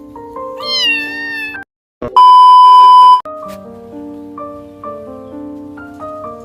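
Light background music with a kitten meowing once, a falling cry about a second in. Shortly after, a loud steady electronic beep of about a second cuts in, then the music carries on.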